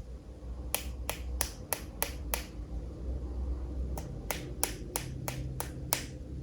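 Two runs of sharp, regular taps, six and then after a short pause seven more, about three a second, over a low steady hum.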